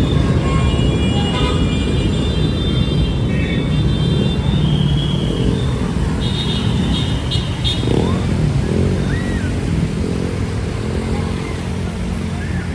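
Street traffic: motor vehicle and motorcycle engines running in a steady low rumble, with short high-pitched tones now and then.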